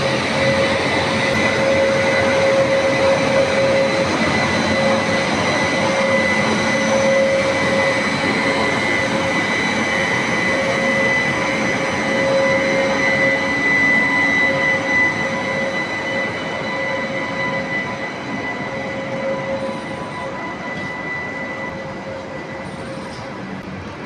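Passenger train passing close by, led by an electric locomotive. Its machinery gives a steady whine of several held tones over the rumble of the wheels. The sound slowly fades over the last third as the locomotive draws away and the coaches roll past.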